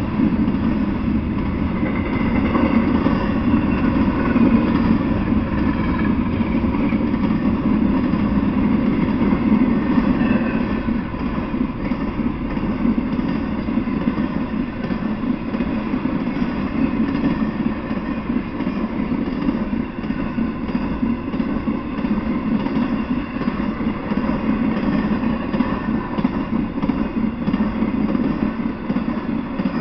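Double-stack intermodal freight train rolling past: the steady, loud noise of steel wheels running on the rails, without a break.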